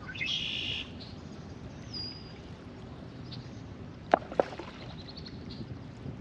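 Shoreline ambience of lake water lapping, with a harsh bird call right at the start and a short whistled bird note about two seconds in. About four seconds in come two sharp knocks a fraction of a second apart, the loudest sounds here.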